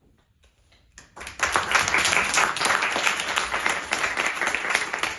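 Audience applauding: a second of near silence after the last piano note has died away, then clapping breaks out and carries on.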